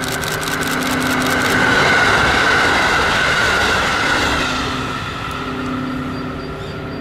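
Train passing close by: a quick run of wheel clicks over rail joints in the first second and a half, under a rush of running noise that swells to its loudest about two seconds in and then fades.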